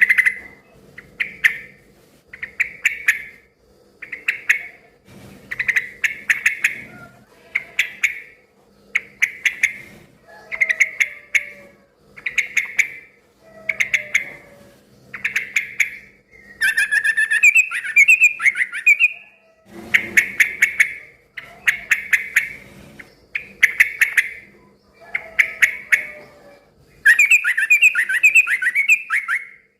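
Sooty-headed bulbul singing loudly in short bubbly phrases repeated about every second and a half, breaking twice into longer chattering runs of song, once midway and once near the end. A faint steady hum lies underneath.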